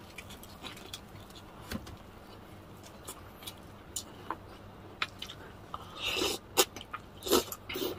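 Close-miked eating of crispy fried chicken: chewing and biting with scattered sharp crunches and mouth clicks, and louder crunchy bites about six seconds in and again near the end.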